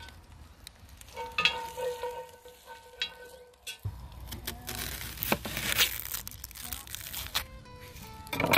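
Cooking at a campfire: oil and garlic sizzling in a cast-iron camp oven, with a few sharp knife knocks on a wooden chopping board.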